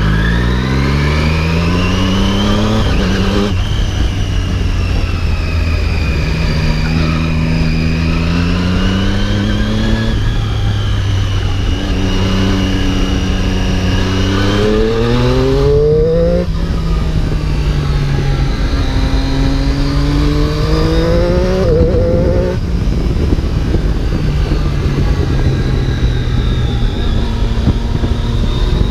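Triumph Daytona 675's three-cylinder engine accelerating hard through the gears on the road. The engine note climbs in pitch and then drops back at each upshift, several times over, before running steadier near the end.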